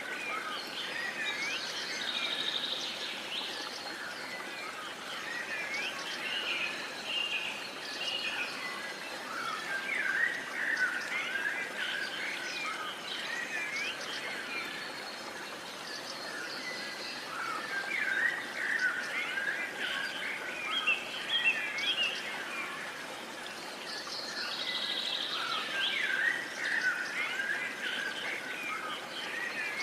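Several songbirds calling and singing over a soft hiss of background noise: many short chirps and whistles, with a fast trill repeated twice.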